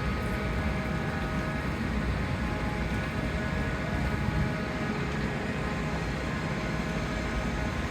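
Steady engine drone: a low rumble with a constant whine of several steady tones above it, unchanging throughout.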